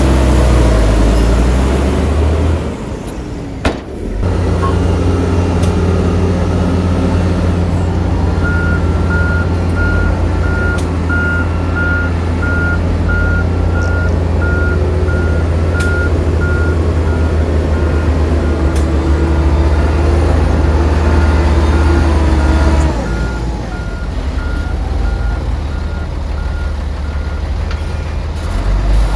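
Heavy diesel earthmoving machinery running, with a reversing alarm beeping steadily from about eight seconds in, roughly one and a half beeps a second. The engine eases off near the end while the alarm keeps sounding.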